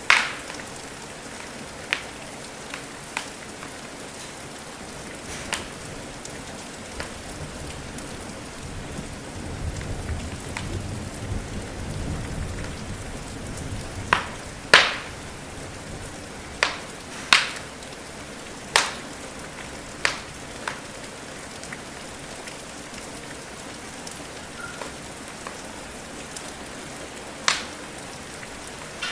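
Steady rain patter with the sharp, scattered pops and cracks of a burning wood fire, about a dozen in all and bunched in the middle. A soft low rumble of distant thunder comes and goes about a third of the way in.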